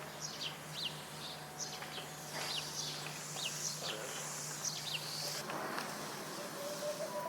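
Small birds chirping: many short, high calls that fall quickly in pitch, repeated every half second or so, over a steady low hum.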